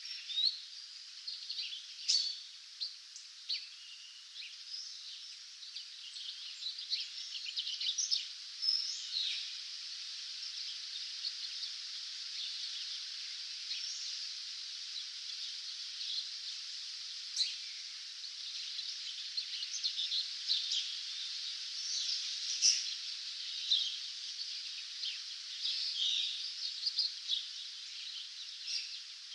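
Dawn chorus of many songbirds singing at once: dense, overlapping short chirps and trills over a steady high hiss.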